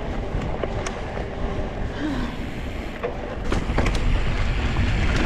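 Wind buffeting the microphone of a riding camera, a heavy low rumble, over mountain bike tyres rolling on dirt and rock, with a few sharp clicks and rattles from the bike.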